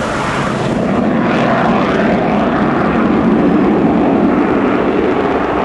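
Avro Vulcan B2's four Rolls-Royce Bristol Olympus 201 jet engines heard in flight: a loud, steady jet rumble that grows a little louder about a second in.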